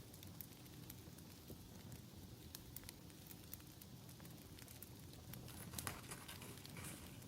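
Faint campfire crackling: a low steady rumble with scattered small pops and snaps. About six seconds in, a few louder rustles of paper being handled.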